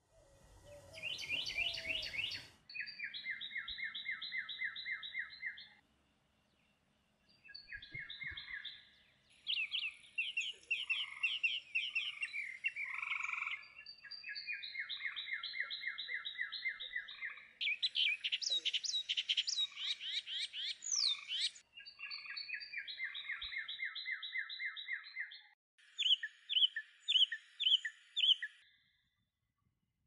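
Songbirds singing: a run of fast trilled phrases, each two to four seconds long, some dropping to a lower pitch partway through, with a few quick sweeping notes in the middle and slower separate notes near the end.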